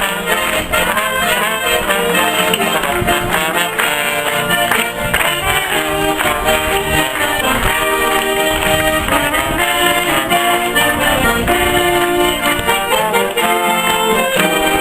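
Live music from a church music group: several instruments playing a melody over a steady beat.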